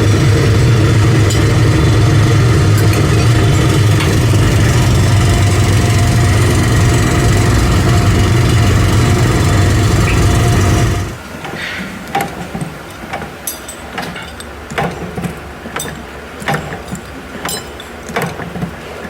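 A loud, steady drone of a running engine or heavy machine, deep and evenly pitched, which stops abruptly about eleven seconds in. After it, quieter scattered metallic clicks and knocks.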